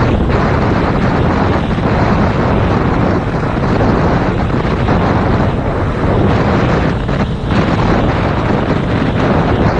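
Heavy wind buffeting on an action camera's microphone at road speed, with the parallel-twin engine of a 2019 Yamaha MT-07 motorcycle running under it. The buffeting eases briefly about seven seconds in.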